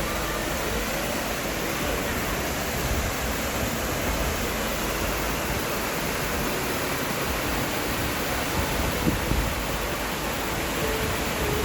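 A waterfall's steady rush of water.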